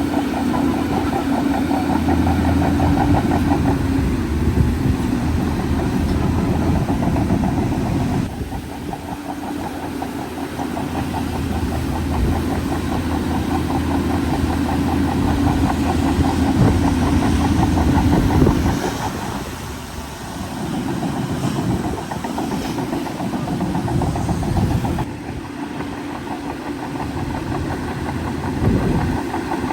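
Heavy diesel engine of a working bulldozer, running steadily. Its pitch and loudness shift abruptly a few times.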